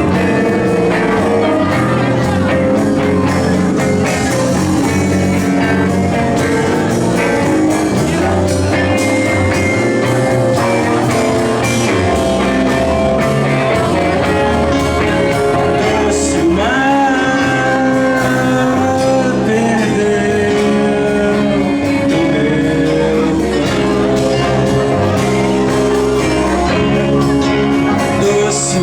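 Rock band music led by guitar, playing on steadily at full volume.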